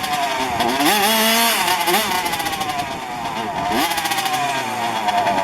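Several 1:5-scale petrol RC cars' small two-stroke engines revving up and down as they run on the track, their overlapping pitches rising and falling.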